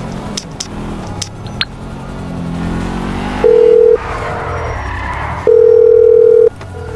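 A car engine revving with rising pitch, then a loud, steady telephone-style ringing tone sounding in two bursts about two seconds apart.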